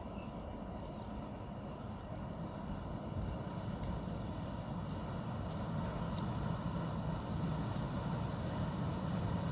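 Distant train approaching: a low rumble slowly growing louder.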